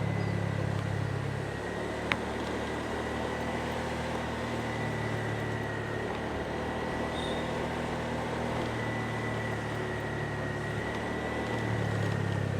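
Motorbike engine running under way, its low hum swelling and easing with the throttle over steady road noise, with a faint steady high whine and a single sharp click about two seconds in.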